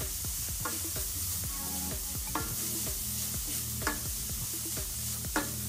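Onion, grated beetroot and carrot stir-frying in a pan, sizzling steadily while being stirred, with a spoon knocking against the pan about every second and a half.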